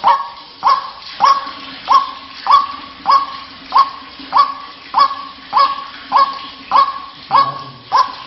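White-breasted waterhen (ruak-ruak) calling a long, even series of loud single notes, each rising sharply and then held, about one and a half a second. This is the call used as a lure to draw other waterhens in.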